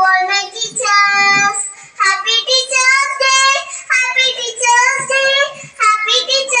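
A young child singing in a high voice, holding each note for about half a second to a second with short breaks between phrases.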